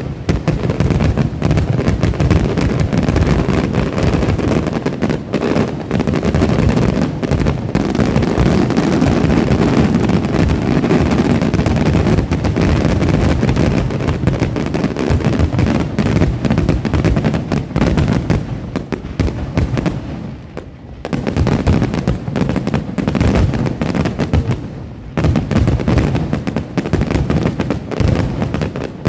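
Aerial fireworks shells bursting in a dense, rapid barrage, the bangs running together almost without a break. There is a brief lull about twenty seconds in, before the bursts pick up again.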